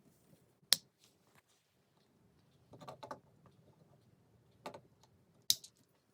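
LEGO pieces clicking and tapping as they are handled and pressed together: a few scattered, sharp plastic clicks, with a small cluster about three seconds in.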